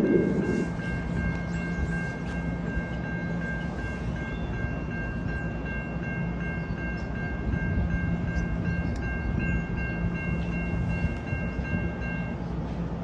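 NJ Transit electric train, an ALP-46 locomotive with multilevel coaches, running through the station with a steady rumble. Over it a steady high-pitched chord of several tones holds for about twelve seconds and cuts off abruptly near the end.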